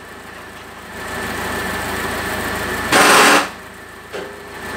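Car engine idling steadily, a VW Voyage running on a replacement ignition coil. About three seconds in, a loud rush of noise lasts about half a second.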